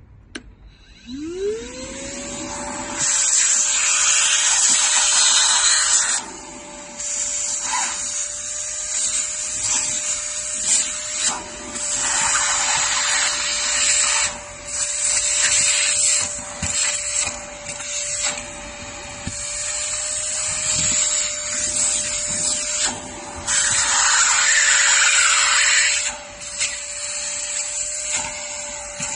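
Cordless lithium-battery handheld vacuum cleaner switched on: its motor spins up in a rising whine within the first two seconds and then holds a steady high whine, with loud rushing air noise that swells and drops back again and again as it is used to clean.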